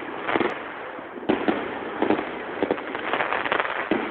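Street fireworks going off: many sharp bangs and pops at irregular intervals over a continuous crackle, with one of the loudest reports about a second in.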